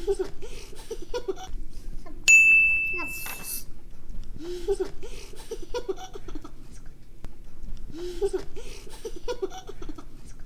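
Laughter sound effect that repeats about every four seconds, with a bright ding chime about two seconds in that rings out for about a second.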